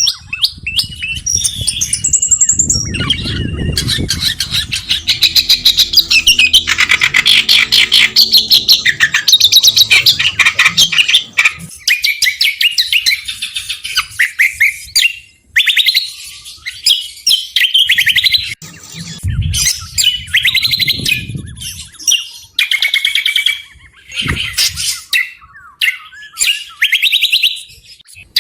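Small songbird singing fast, rapid-fire trills and sharp chirps in long, dense phrases with short breaks. A low rumble underlies the song near the start and again about two-thirds through.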